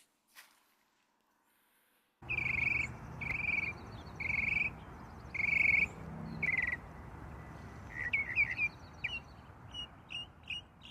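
Bird calling after about two seconds of near silence: a string of short, repeated calls over a steady outdoor background, breaking into quicker, shorter chirps near the end.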